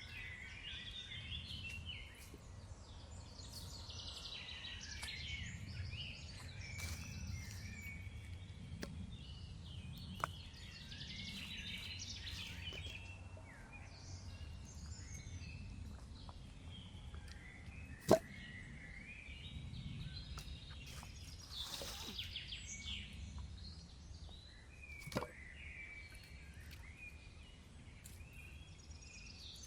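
Birds chirping and calling over a low, steady outdoor rumble, with a few sharp snaps; the loudest snap comes about eighteen seconds in.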